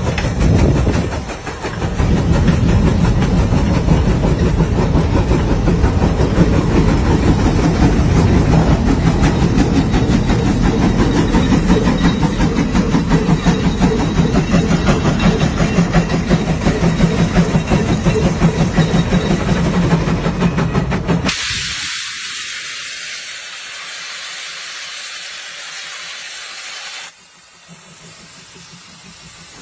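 A heavy engine running with a fast, steady pulsing beat. About 21 seconds in it cuts off abruptly and gives way to a steady hiss, which drops lower a few seconds later.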